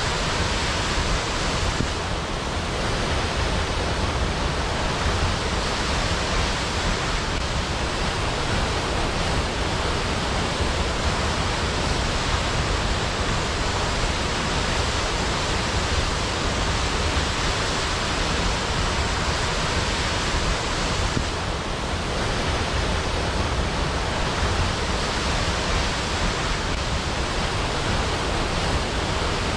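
Waterfall: water falling in a steady, dense rush with a deep rumble underneath.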